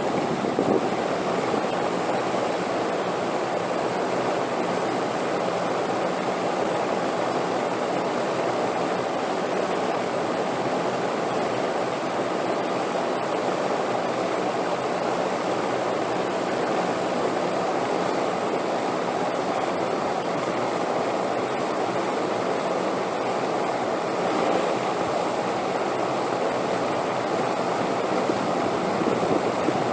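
Wind blowing steadily, an even rushing noise without gusts or breaks.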